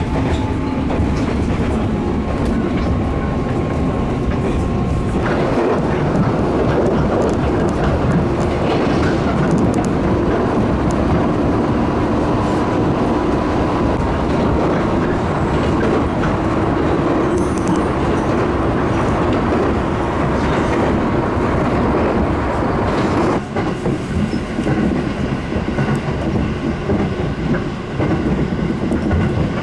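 Electric train running at speed, heard from inside the passenger car: a steady rumble of wheels on the rails with a faint motor hum. The noise grows fuller about five seconds in and thins again around twenty-three seconds in.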